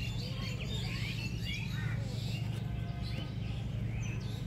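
Several small birds chirping, many short rising and falling calls, over a steady low hum.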